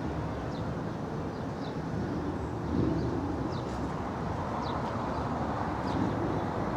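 Outdoor ambience: a steady low background rumble, with faint short high chirps about once a second.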